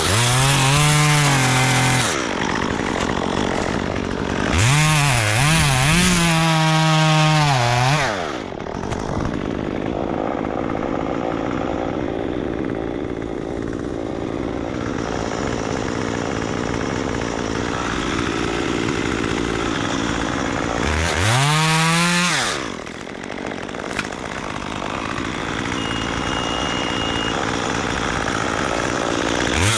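Chainsaw engine revving up to full throttle in bursts, about four times, dropping back to idle between them while the tree is being cut down.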